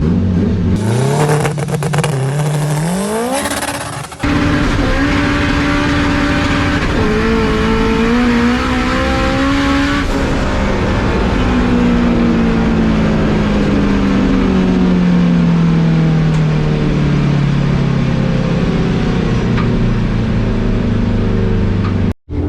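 Drag-racing car engine accelerating hard, its pitch climbing in steps through the gears, then winding down with a long falling pitch as the car slows. The sound drops out briefly about four seconds in and again near the end.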